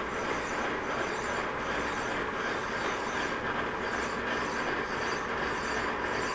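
Metal lathe turning a steel part, the cutting tool rubbing and screeching steadily on the metal, with a faint even pulsing in the high hiss as the workpiece turns.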